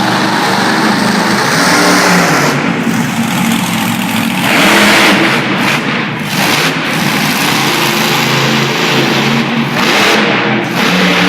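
Monster truck engine running and revving, loudest about four to five seconds in.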